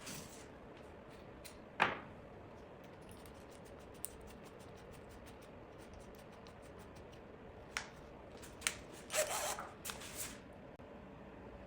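Scattered handling noises: a sharp knock about two seconds in, faint light ticks, then a few clicks and a short noisy burst of about a second near the end, over a faint steady hum.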